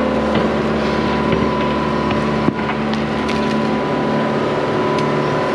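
Excavator engine running steadily under load as the bucket digs into hard ground, with scraping and scattered clicks of soil and stone and one sharp knock about two and a half seconds in.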